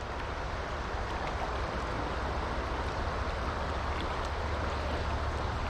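Small creek water running steadily over rocks: an even, unbroken rush with a steady low rumble beneath it.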